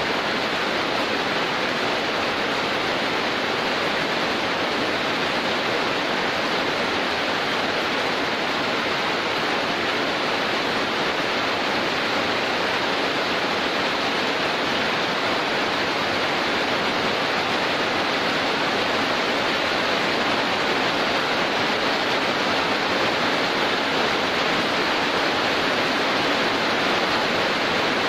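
Heavy, steady downpour of rain: an even, unbroken hiss with no thunder or separate drops standing out.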